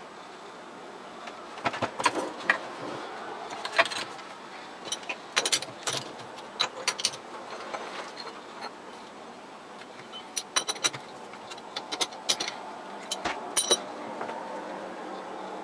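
Irregular metallic clinks and rattles, some briefly ringing, over a steady machine hum, typical of metal parts or tools being handled at a lathe.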